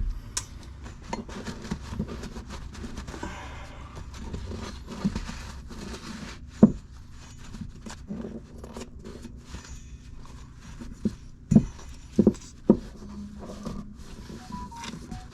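Small metal differential-locker parts being handled: scattered clinks, scrapes and knocks as the clutch pack and basket are taken apart and set down, with a few louder single knocks in the second half.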